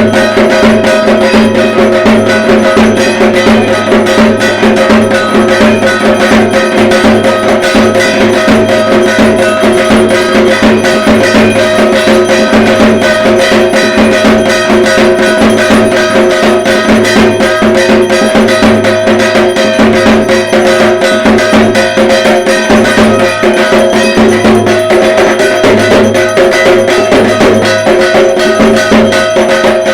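Dhak, the large Bengali barrel drum of Durga Puja, played nonstop in a dense, fast rhythm of strokes, over steady metallic ringing tones.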